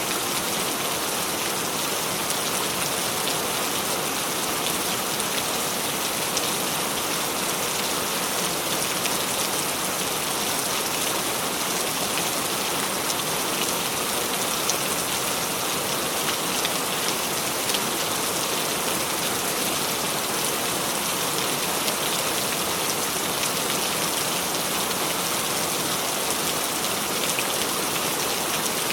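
Steady rain falling: an even hiss of many drops, with no break or change in strength.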